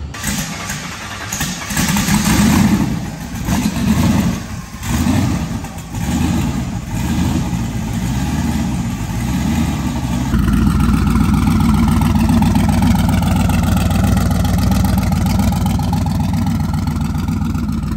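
A built Chevrolet Camaro's V8 engine revved in several short blips over the first seven seconds, then running steadily and louder from about ten seconds in, its pitch drifting down and back up.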